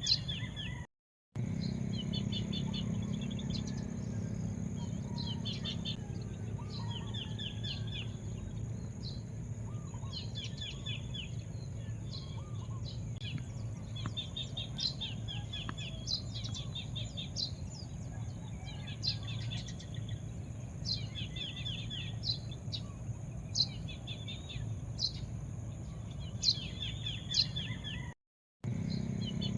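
Small birds chirping in short, rapid, repeated phrases, one every second or two, over a steady low background rumble. The sound cuts out completely for a moment twice: about a second in and near the end.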